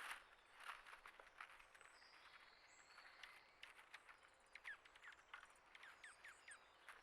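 Faint chirps and call notes from small songbirds: many short notes, most dropping quickly in pitch, with a few higher thin notes and small ticks and patters among them.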